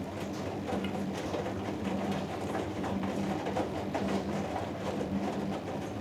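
Hoover Dynamic Next front-loading washing machine in the wash phase of a cotton cycle, the drum turning and tumbling the laundry. Its motor hum swells and fades in a steady rhythm, about one to two pulses a second.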